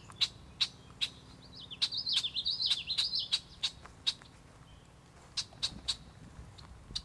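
Songbirds calling: short, sharp chirps repeated every half second or so, with a warbling, wavering song from about one and a half to three and a half seconds in. A faint low hum lies under the first half.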